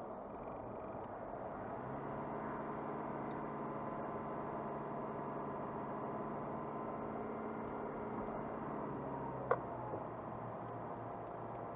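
A car being driven: a steady engine hum over road noise, with a few steady tones that fade out about nine seconds in. A single sharp click comes about nine and a half seconds in.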